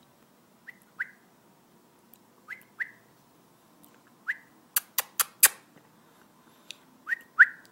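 Domestic canary giving short rising call notes, mostly in pairs about a third of a second apart, with a run of four sharp clicks about five seconds in.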